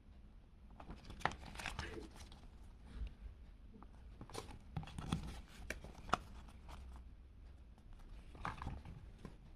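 Packaging being handled and torn open during an unboxing: crinkling and tearing in three spells of handling, with a few sharp clicks.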